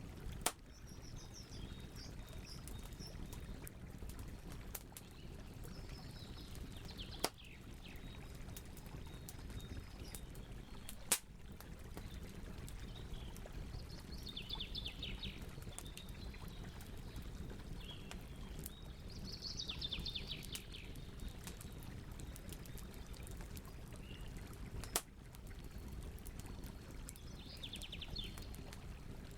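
Wood fire crackling and hissing steadily, with four sharp, loud pops. Over it a bird sings five short, fast trilled phrases.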